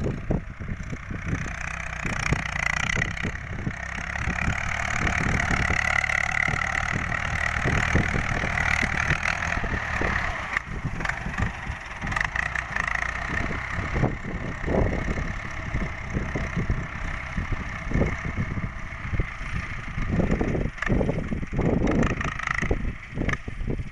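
Ford 6600 tractor's diesel engine running continuously while it works a rice paddy, with irregular short knocks and bumps over it.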